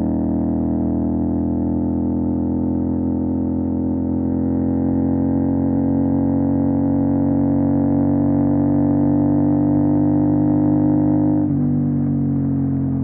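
CFMOTO 450 SR's parallel-twin engine through an MSH G6 full-system exhaust, droning steadily under way with its pitch slowly creeping up, then dropping slightly near the end.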